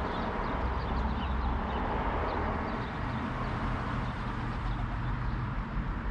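Small birds chirping, many short high falling chirps, over a steady low outdoor rumble.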